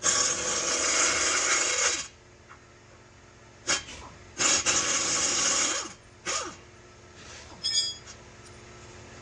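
Pneumatic tool run in two long trigger pulls, the first about two seconds and the second about a second and a half, each winding down with a falling whine, with a few short taps of the trigger between and after.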